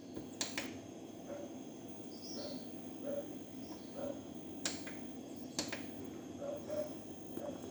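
Several sharp isolated clicks and faint short chirps over a low steady hum.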